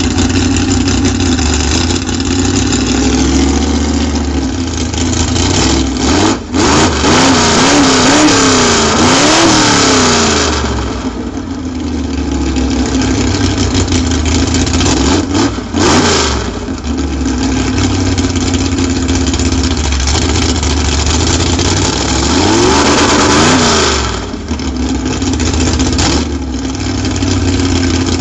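V8 drag-car engine idling loudly through its exhaust and blipped repeatedly, its pitch rising and falling. There is a run of quick revs from about 4 to 10 seconds, another sharp rev near 16 seconds and more blips around 22 to 24 seconds, settling back to a lumpy idle in between.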